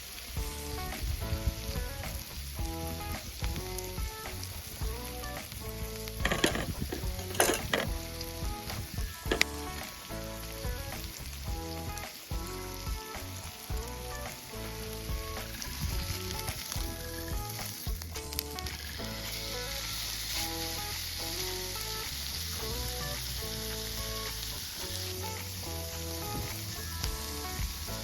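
Food frying and sizzling over the fire pit, a steady hiss, with a few sharp clatters about six to nine seconds in. Background music with a plucked melody and bass plays over it.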